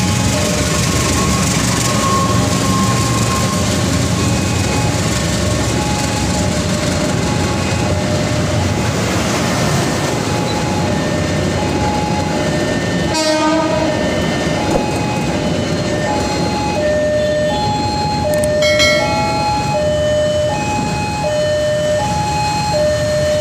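Diesel-hauled passenger train running past over a level crossing, a steady rumble of locomotive and wheels on rail. Throughout, the crossing's electronic warning alarm repeats a two-tone alternating chime. A brief horn sounds about halfway through.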